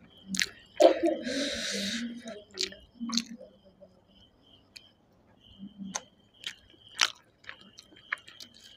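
Close-miked eating by hand of chicken curry and rice: wet chewing and lip smacking with sharp mouth clicks, and a breathy hiss about a second in.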